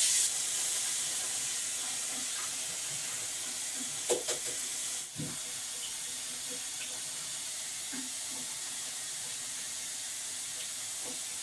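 Kitchen tap running a steady stream of cold water over just-boiled quail eggs to cool them quickly, with a couple of light knocks about four and five seconds in.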